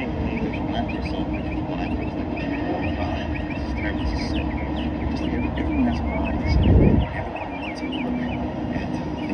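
Many short bird chirps over a steady low rumble, with a brief louder low rumble about two-thirds of the way through.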